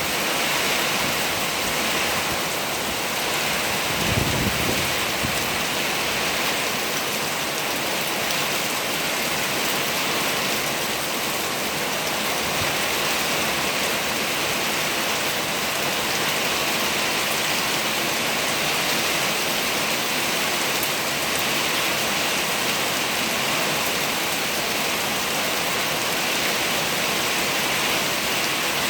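Rain falling steadily in wind, an even hiss of rain. One brief low thump comes about four seconds in.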